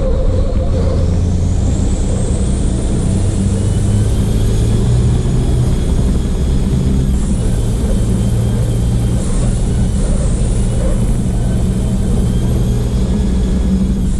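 Copa Truck race truck's diesel engine running hard at racing speed, heard loud and steady from the truck's onboard camera. A high whine rises over the first few seconds and dips briefly twice.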